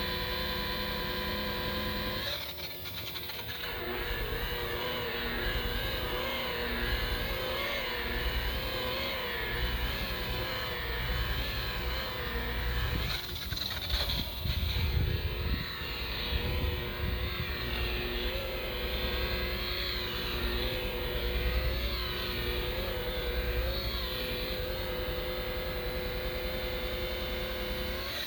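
DeWalt DWP849X rotary buffer running against a boat's gelcoat while compounding, its motor pitch wavering up and down as the load on the pad changes. About two seconds in, the sound changes from a steady hum to the wavering loaded note.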